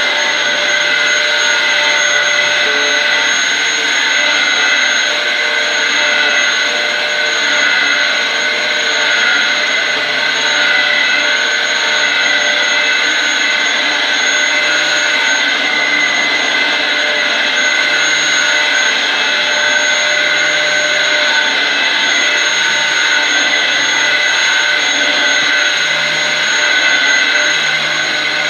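Dyson DC07 upright vacuum cleaner running on carpet: a steady motor whine with a thin high tone over it, and a lower hum that comes and goes.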